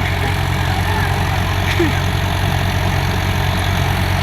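Tractor diesel engine running steadily with an even, low drone.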